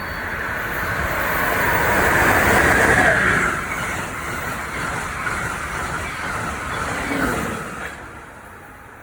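Amtrak train rolling through on the rails, a steady rush of wheel and rail noise that swells to its loudest a few seconds in, holds, and then falls away near the end.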